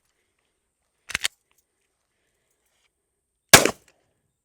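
A Kel-Tec P15 9mm pistol fired once near the end, a single loud shot, after a couple of quiet clicks about a second in.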